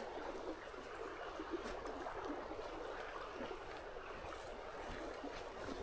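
Steady rush of a creek or stream flowing.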